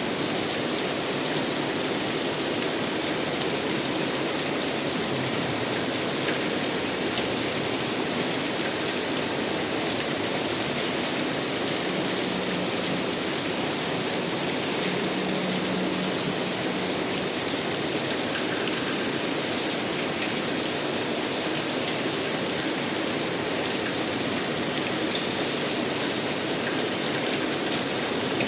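Steady, even rain noise with faint scattered drop ticks, a continuous hiss that does not change. A faint low hum comes in briefly about halfway through.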